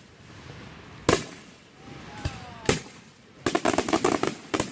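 Aerial fireworks going off: a sharp bang about a second in and another near the middle, then a rapid string of crackling pops, and one more bang near the end.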